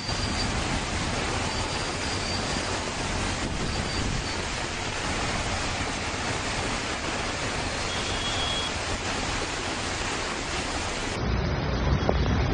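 Steady, even rushing of water. About eleven seconds in it switches abruptly to a deeper, rumbling rush.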